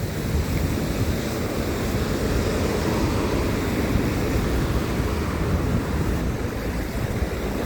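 Steady rushing wind noise on the microphone of a rider cycling along.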